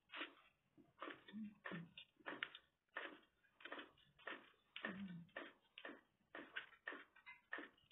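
A person chewing a mouthful of food close to the microphone: a steady run of soft, wet crunchy chews, about three a second.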